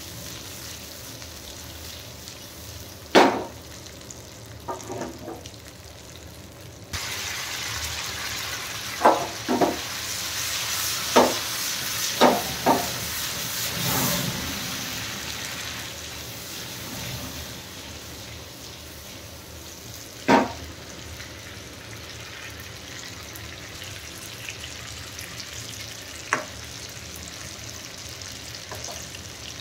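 Tinde (apple gourds) and onions frying and sizzling in hot mustard oil in a metal pan, with a few sharp clinks of a metal spatula against the pan. About seven seconds in, the sizzle turns suddenly louder and brighter as the oil flares up in flames over the pan, then settles back after about ten seconds.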